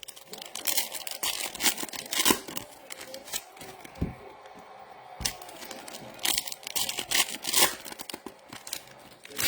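Trading card packaging being torn open and crinkled: an irregular run of sharp rips and crackles, loudest about two seconds in and again near the end.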